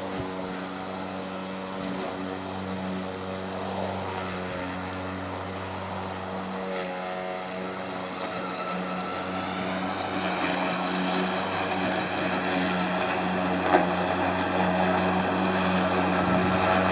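EGO 56-volt cordless electric lawn mower running with a steady motor and blade hum that grows louder over the last several seconds. A single sharp tick sounds about fourteen seconds in.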